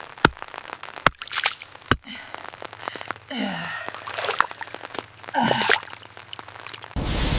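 A few sharp knocks and rustling, with two short falling sighs, then a sudden loud burst of thunder near the end that keeps rumbling.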